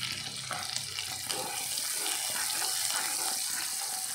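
Shallots and bird's-eye chillies sizzling in hot oil in a pan, a steady hiss with a few small crackles.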